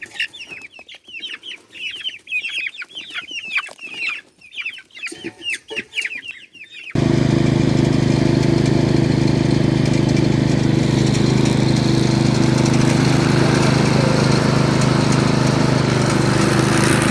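Chickens clucking and cheeping in quick, high, chirpy calls; about seven seconds in they cut off abruptly and a small engine takes over, running loud and steady.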